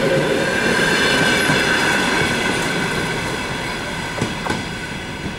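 Passenger coaches of a departing train rolling past, wheels clacking over the rail joints with a thin steady squeal, slowly fading as the last coach pulls away. Two sharp knocks come about four seconds in.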